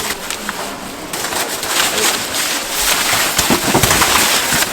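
Deep-frying oil sizzling and crackling, the hiss growing denser about a second in.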